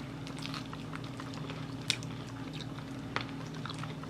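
Close-up chewing of Korean fried chicken, with a couple of sharp clicks about two seconds in and just after three seconds, over a steady low hum.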